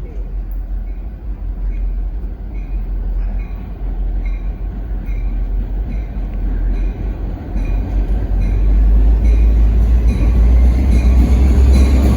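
NJ Transit locomotives 4208 and 4300 approaching at the head of a long rail train: a low rumble that grows steadily louder, with a short high ringing tone repeating about twice a second.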